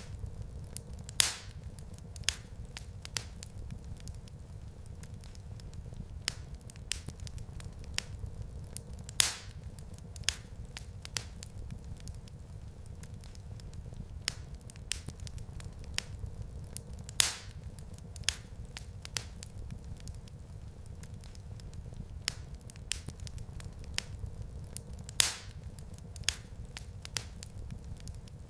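Wood fire crackling in a fireplace: a steady low rumble of the flames with frequent small crackles and snaps. A louder pop comes about every eight seconds.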